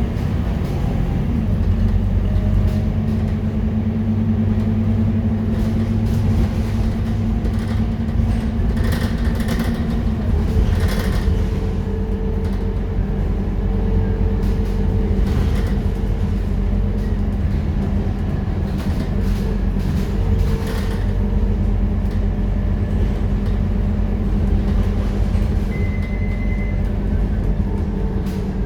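Diesel engine of a Scania K230UB city bus running steadily under way, a continuous low drone whose pitch shifts about ten seconds in. A few brief knocks or rattles come through now and then.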